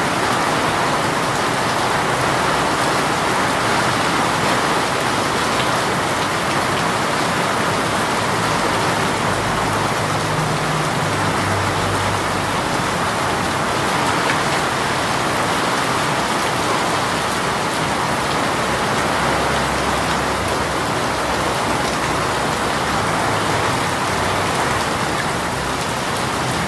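Heavy rain falling steadily, an even hiss of downpour with no letup.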